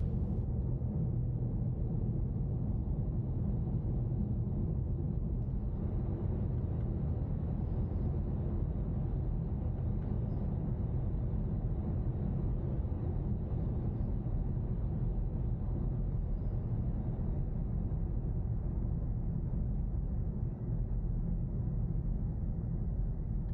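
Steady low rumble of a car driving, with road and engine noise at an even level throughout.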